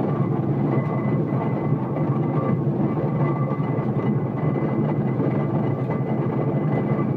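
Steam traction engine running steadily: an even mechanical rumble with a faint steady high tone above it.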